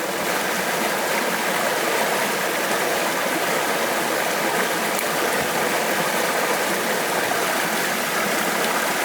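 Stream water running steadily over rocks, an even rushing with no breaks.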